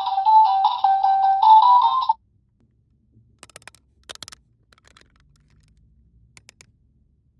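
Electronic phone ringtone: a short stepping beeped melody that cuts off suddenly about two seconds in, followed by a few faint light clicks.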